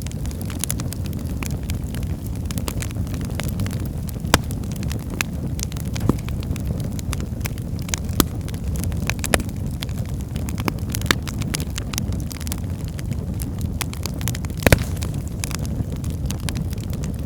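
Wood fire burning in a fireplace: a steady low rush of flames with frequent small crackles and a handful of sharper pops from the burning logs, the loudest pop near the end.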